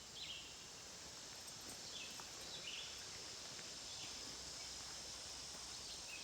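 Faint, steady late-summer insect chorus, a high continuous hiss of crickets, with short higher chirps every second or so.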